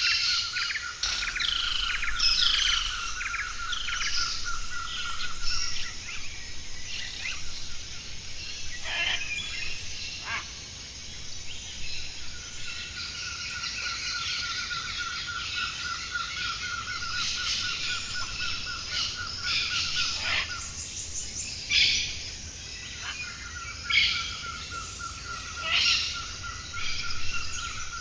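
Several forest birds chirping and calling over one another, above a long, even, rapid trill that runs for several seconds, breaks off, and returns twice.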